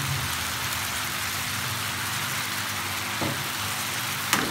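Diced potatoes and onions sizzling steadily in hot oil in a frying pan, under a low steady hum. Two short knocks come near the end, the second sharper and louder, as eggs are cracked into the pan.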